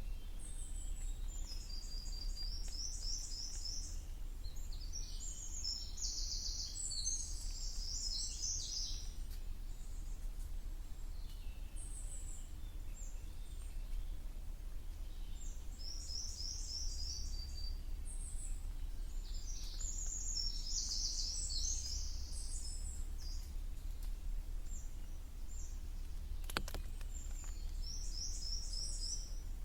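Wild songbirds singing short, high, repeated phrases every few seconds, over a steady low rumble of wind. There is a single sharp tap near the end.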